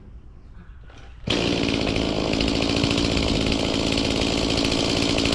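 Chainsaw comes in abruptly about a second in and runs steadily at high revs.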